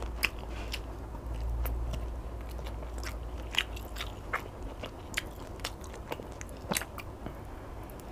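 Close-up chewing of chicken satay: moist mouth clicks and smacks at irregular intervals as the meat is chewed, with a fresh bite taken off the skewer near the end.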